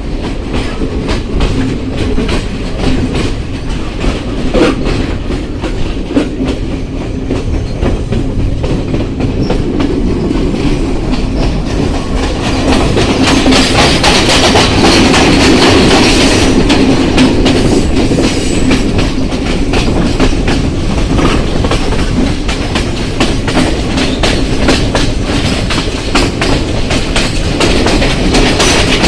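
Train running along the track, its wheels clicking rhythmically over rail joints over a steady rumble; it grows louder and harsher a little before halfway through.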